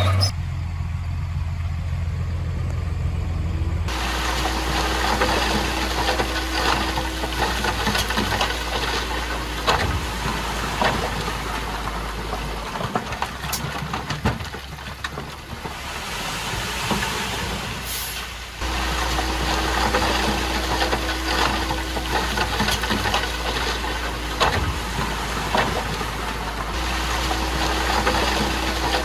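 Komatsu bulldozer's diesel engine running with a steady low drone over a constant rattle. The engine note changes abruptly several times.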